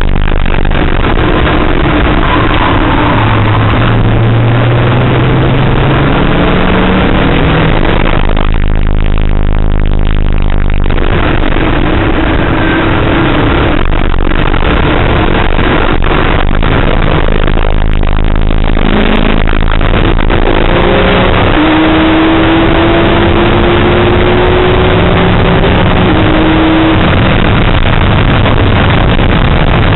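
Car engine heard loud from inside the cabin on a track lap, its pitch rising several times as it is driven hard through the gears, with a lift off the throttle about nine seconds in. Heavy road and wind noise underneath.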